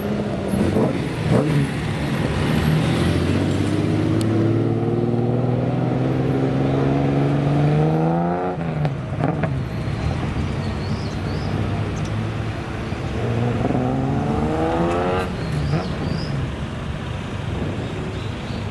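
Classic car engine accelerating: its note climbs steadily for about six seconds, then drops abruptly about eight and a half seconds in. It climbs again for a couple of seconds later on and drops once more.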